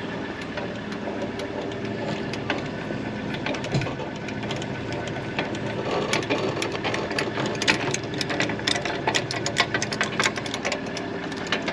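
A vehicle's engine running steadily, with many sharp clicks and rattles that come thick and fast from about halfway in.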